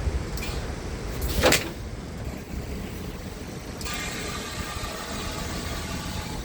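Scania R tractor unit's diesel engine running with a steady low rumble. About one and a half seconds in there is a short, loud sweep of noise, and from about four seconds in a hiss with a faint steady whine joins the rumble.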